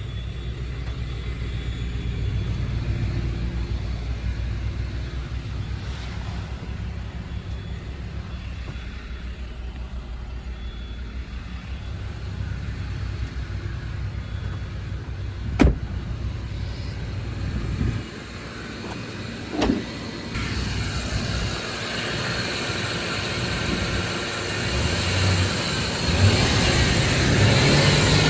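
2014 Ford F250 pickup's engine idling steadily, with a sharp knock a little past the middle. The low idle then drops away, a second thump follows, and a louder, rougher noise builds near the end.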